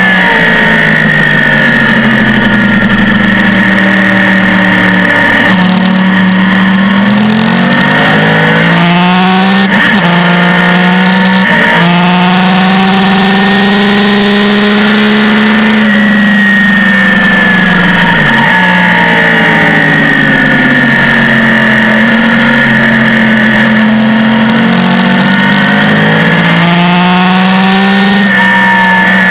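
Sport bike's engine heard from an onboard camera at racing revs, with wind rush over it. The pitch falls and climbs again and again as the rider brakes, accelerates and shifts gear. Several quick breaks in the note between about seven and twelve seconds in mark upshifts.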